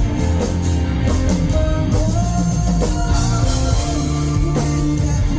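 Live rock band playing an instrumental passage of a ballad between sung lines, with drum kit and guitar over sustained chords.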